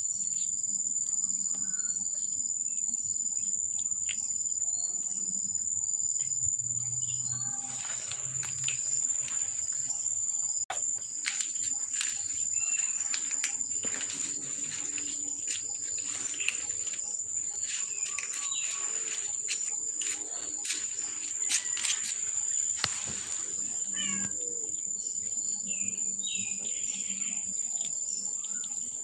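Insects trilling steadily in one continuous high-pitched note, with scattered clicks and a few short bird chirps near the end.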